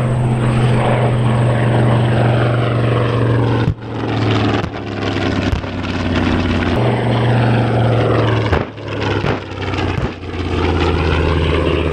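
Radial-engined propeller warplanes running in low flight past the crowd, a deep steady drone; the engine pitch drops as aircraft pass, about four seconds in and again near nine seconds.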